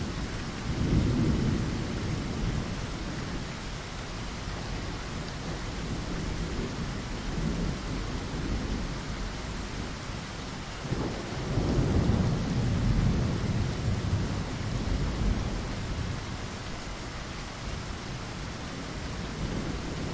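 Steady rain falling, with rolls of low thunder rumbling twice, about a second in and again at about the middle.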